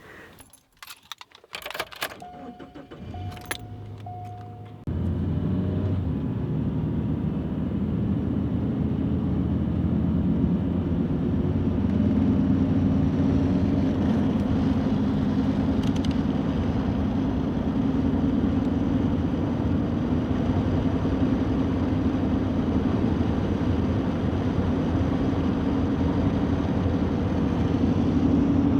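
Kawasaki KLX110 pit bike's small single-cylinder engine running steadily while being ridden. Its sound comes in suddenly about five seconds in, after a few light clicks.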